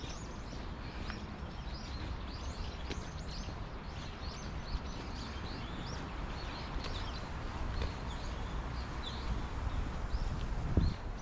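Small birds chirping rapidly and continuously, many short up-and-down chirps one after another, over a low steady rumble, with a brief low thud near the end.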